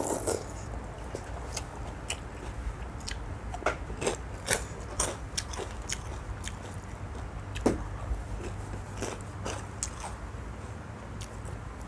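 A person eating noodle soup topped with crispy pork cracklings (khaep mu): irregular crunches and chewing, with a steady low hum underneath.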